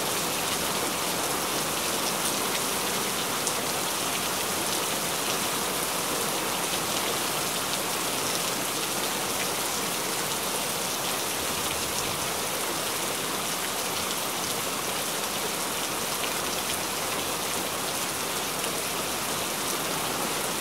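Steady rain falling: an even hiss of drops, with a few sharper drop ticks now and then.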